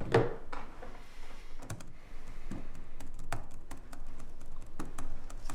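Irregular light clicks and taps, a few at a time with short gaps, after a fuller sound right at the start.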